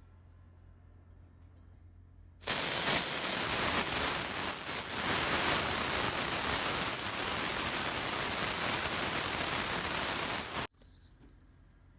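Pressurised air hissing out of a truck's AC system as the leak-test pressure is vented before vacuuming. A loud, steady hiss starts about two and a half seconds in and cuts off suddenly about eight seconds later.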